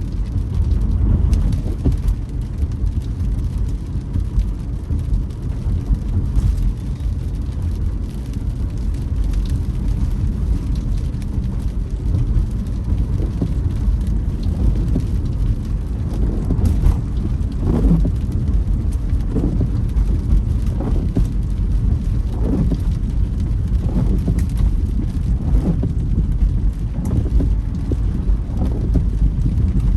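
Steady road and engine rumble heard inside a car driving in rain. From about halfway, the windscreen wipers creak in a repeated rhythm.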